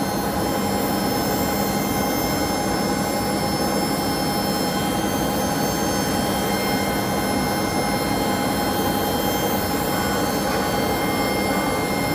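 Boeing airliner's turbine engines running during pushback: a steady whine of several held high tones over a loud, even rushing noise.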